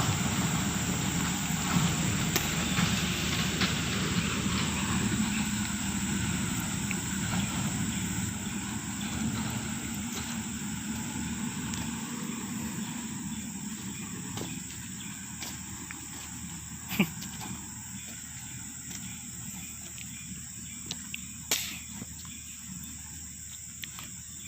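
A low engine rumble that slowly fades, under a steady high-pitched insect drone, with a couple of sharp knocks in the second half.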